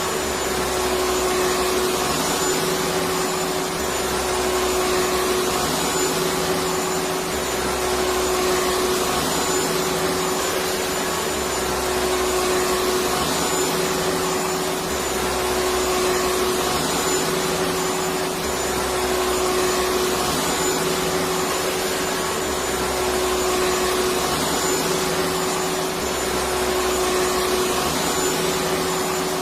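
Vacuum cleaner running continuously: a steady motor whine and rushing air, with its low rumble shifting in a regular pattern every couple of seconds.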